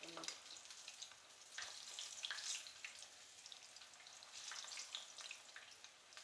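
Eggplant slices sizzling in hot oil in a frying pan, a steady hiss with many small crackles and pops.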